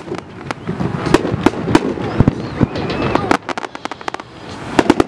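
Fireworks going off: rapid strings of sharp bangs and crackling pops in clusters, with a brief lull before another burst of bangs near the end. Spectators' voices run underneath.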